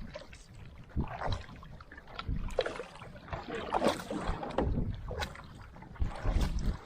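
Outrigger canoe paddles stroking through the water, irregular splashes about once a second.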